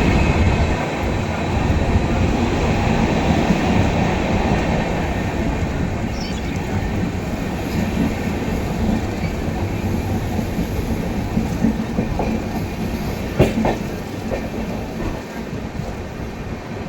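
Passenger train in motion: a loud, steady rumble and rattle of wheels on the rails, with one sharp click about thirteen seconds in.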